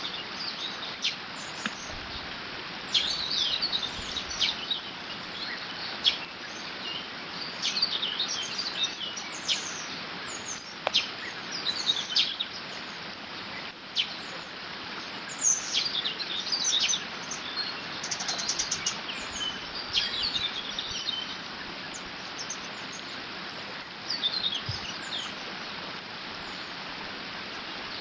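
Water rushing steadily over a beaver dam, with many songbirds chirping and singing over it, and a quick trill about eighteen seconds in.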